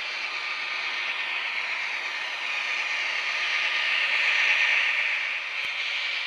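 HO scale model train running along the layout track, a steady rushing hiss of wheels on rail and motor that swells as it passes closest about four to five seconds in, then eases off.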